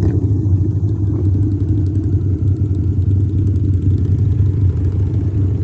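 Harley-Davidson motorcycle engine running steadily with a low rumble, as heard while riding.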